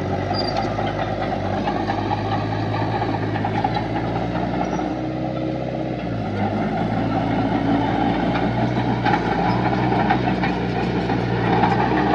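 Heavy earth-moving machine's diesel engine running steadily, its note shifting slightly about six seconds in.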